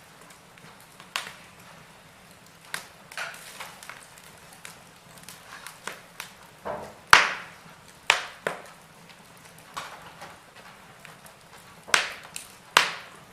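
Wood fire burning in a fireplace, crackling with irregular sharp pops over a faint hiss; the loudest pop comes about halfway through, with a few more strong ones near the end.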